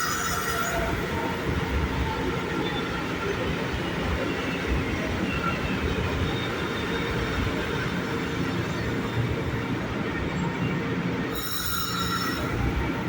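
São Paulo Metro train running past, a steady rumble of wheels on rail. Brief high-pitched wheel squeals come right at the start and again about eleven and a half seconds in.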